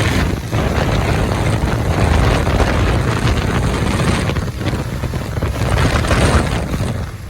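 Wind rushing and buffeting over the microphone of a motorcycle on the move, with low rumble from the bike underneath. The noise is loud and dense throughout, dipping near the end.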